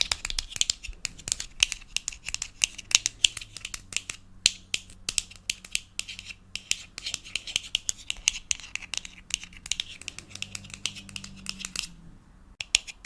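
A fast, irregular run of crisp clicks and scratches made close to the microphone, typical of ASMR tapping and scratching triggers. There is a short pause near the end.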